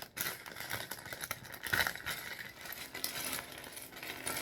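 Loose plastic Lego pieces rattling and clattering against each other and the plastic bag as the bag is handled and tipped out, a dense run of small clicks with bag crinkle.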